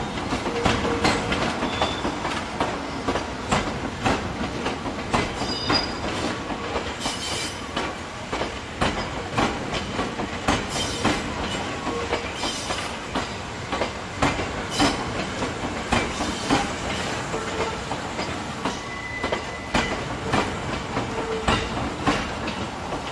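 Electric commuter train running past, its wheels clattering over rail joints in a steady stream of irregular clicks, with brief faint wheel squeals.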